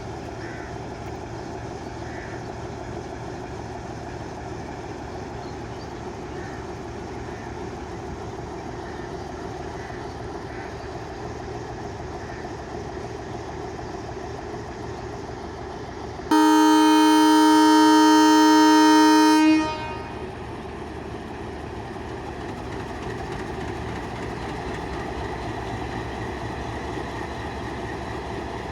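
Passenger train's diesel locomotive running with a steady rumble, then sounding one loud, steady horn blast of about three seconds just past the middle as the train departs.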